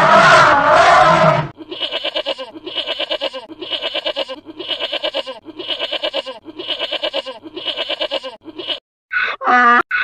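Goat-like bleating, about eight quivering bleats in a steady rhythm, each lasting under a second. Before them a loud elephant-like trumpet call ends about one and a half seconds in, and about a second before the end short, harsh donkey-like calls begin.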